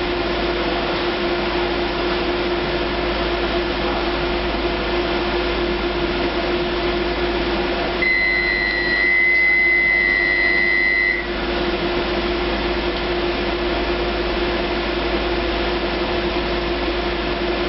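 Steady hum of a Docklands Light Railway train with a constant low drone. About eight seconds in, one high continuous beep sounds for about three seconds and stops abruptly.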